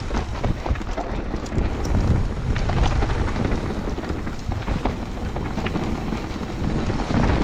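Wind buffeting the microphone of a mountain biker's action camera, over the noise of the bike's tyres on the trail, with scattered light rattles and clicks from the bike.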